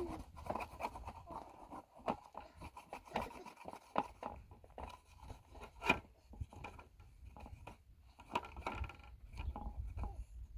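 Irregular scraping and rubbing of hand work, broken by light knocks and a few sharper clicks.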